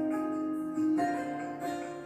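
Guitar music with plucked notes, played through a television's speakers during a sound test.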